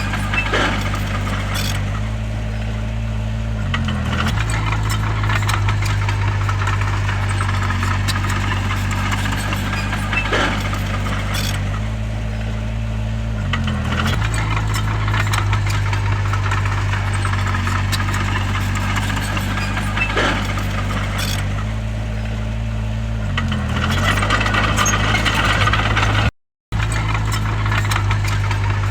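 Bulldozer's heavy diesel engine running steadily under work, its pitch dipping briefly three times about ten seconds apart, with sharp clanks and rattles over it. The sound drops out for a moment near the end.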